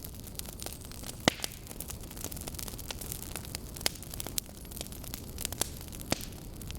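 Burning wood logs crackling steadily, with frequent small snaps and a few louder pops, over a low steady rush of the flames.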